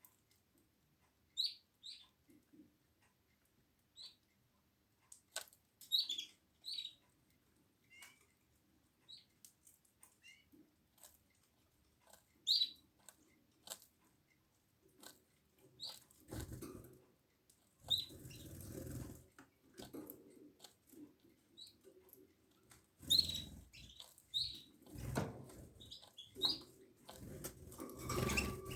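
Canaries giving short, high single chirps now and then, with small clicks and two longer bursts of wing fluttering and rustling, one just past the middle and one near the end.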